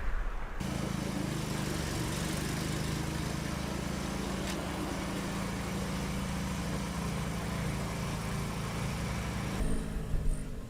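A vehicle engine running steadily. It starts abruptly about half a second in and cuts off suddenly near the end.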